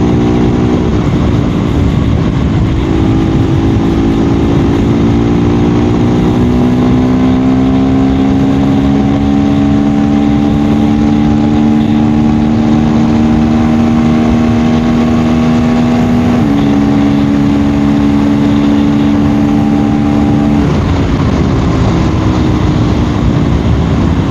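KTM Duke 390's single-cylinder engine running at a steady freeway cruise, its note climbing slowly, with two abrupt changes in pitch in the second half, over a steady rush of wind noise.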